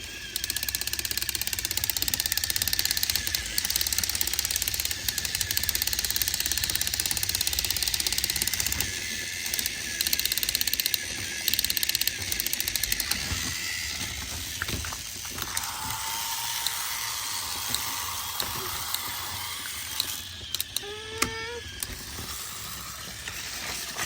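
Battery-powered Trackmaster toy train engines running across a plastic shaking bridge: a fast, dense gear whir and plastic rattle, loudest at first and easing off about fourteen seconds in. A few short rising and falling tones come near the end.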